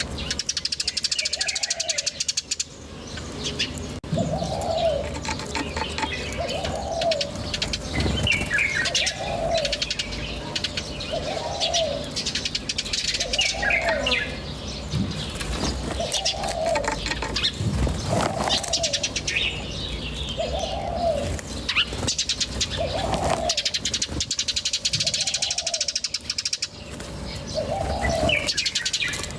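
Birds calling: a short low call repeated about every two seconds, over higher chirps and a dense high twittering.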